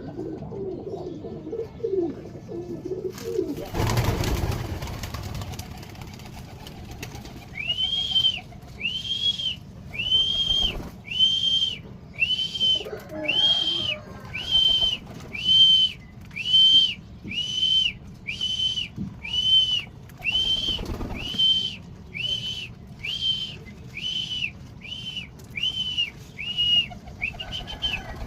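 A pigeon cooing, then a brief rush of noise like flapping wings, followed by a high whistled note repeated evenly about once a second for the rest of the time.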